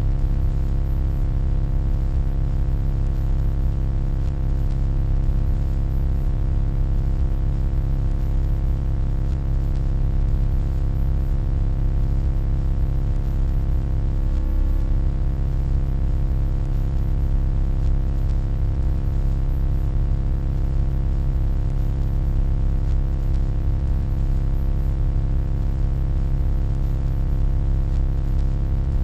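Steady, deep electronic hum with many faint steady overtones stacked above it, holding an even level throughout; the tones waver briefly about halfway through.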